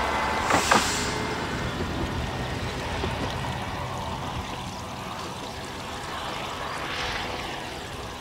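Single-car diesel railcar running away along the line, its engine and wheel noise fading steadily, with a couple of sharp clicks from the wheels about half a second in.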